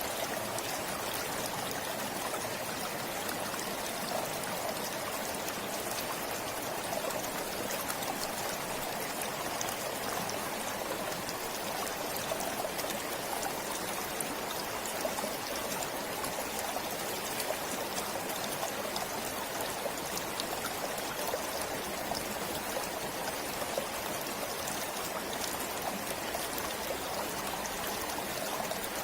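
A forest stream flowing and trickling steadily.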